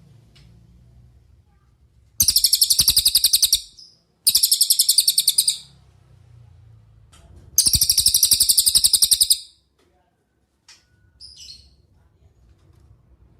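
Cililin song: three loud, very rapid, high trills of about one and a half to two seconds each, with a few faint short chirps later on over a faint low rumble.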